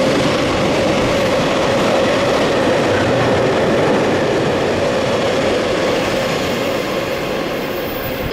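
Freight container wagons passing close by at speed: a loud, steady rumble and clatter of steel wheels on rail with a thin steady tone running through it, easing off near the end as the last wagon goes by.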